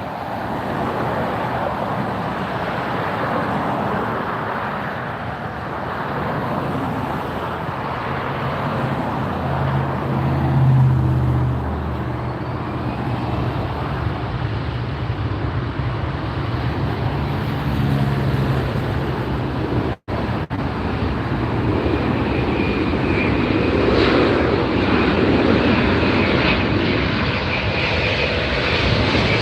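Airbus A330-900 jet airliner arriving, its Rolls-Royce Trent 7000 turbofans giving a continuous loud rushing roar, with a deep hum in the middle and a thin high whine in the last part. The sound cuts out briefly about twenty seconds in.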